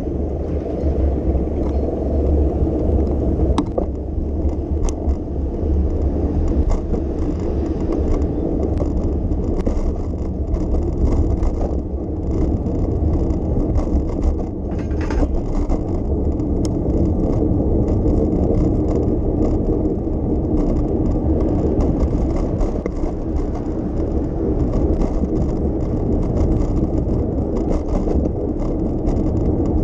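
Steady low rumble of a moving bicycle: tyres rolling on the street and wind on the microphone, with a few small clicks.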